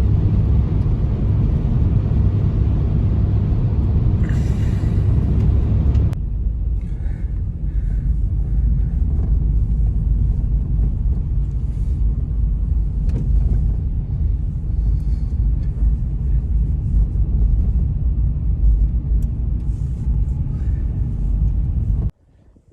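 Strong blizzard wind blowing, a deep steady noise that shifts abruptly about six seconds in and cuts off just before the end.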